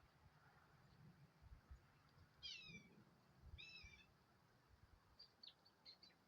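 A bird calling faintly: two short, falling, pitched calls about a second apart, then a few brief high chirps, with some soft low thumps underneath.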